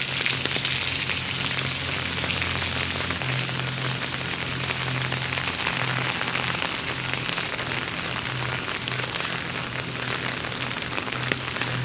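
Heavy rain falling steadily: a dense hiss of drops pattering on surfaces, with a low steady hum underneath.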